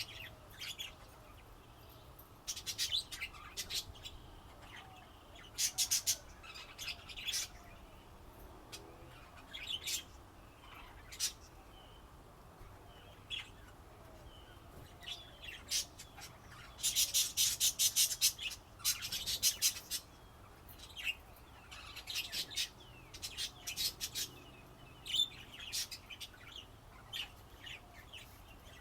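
Pet budgerigars chirping and chattering in scattered short bursts, with a dense run of chirps a little past the middle and quieter gaps between.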